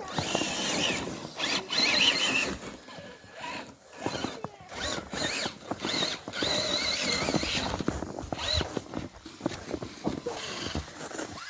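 Electric motors and gearing of RC crawler trucks whining, the pitch rising and falling and stopping and starting with the throttle.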